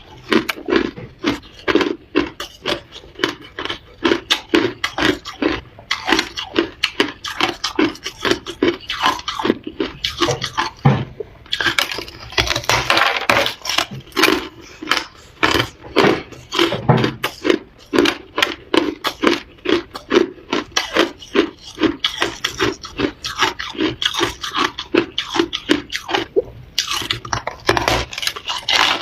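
Close-up crunching and chewing of hard ice in the mouth, a rapid run of repeated crisp crunches, with a denser grinding stretch about halfway through.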